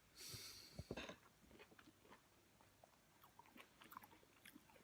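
A person eating: faint chewing of food with small scattered clicks and crunches.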